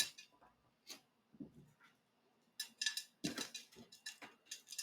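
Chunky potting mix being scooped and tipped into a terracotta pot: irregular scraping and rattling of the coarse bits, sparse at first and busier from about halfway.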